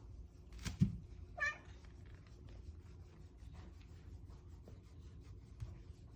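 Bengal cat giving one short meow about a second and a half in, just after a soft thump; faint rustling ticks throughout.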